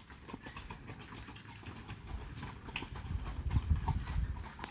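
Two horses moving close by, their hooves stepping irregularly on the forest floor, with a low rumbling swell through the second half.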